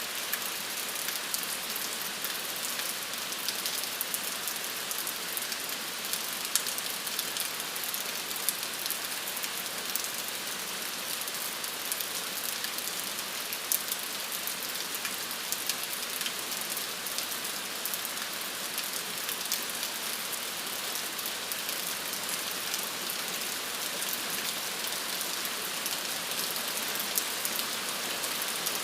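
Steady rain falling, a dense even hiss of many drops with scattered sharper drop ticks on a surface.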